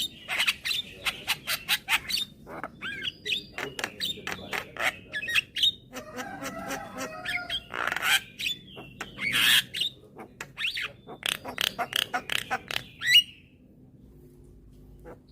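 Javan myna (jalak kebo) singing a fast, chattering run of sharp clicks, whistled glides and a couple of harsh squawks, falling silent about two seconds before the end.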